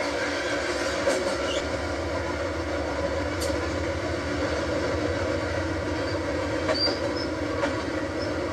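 Train rolling slowly along the track: a steady rumble of engine and wheels, with a few sharp clicks and some short high wheel squeaks past the middle.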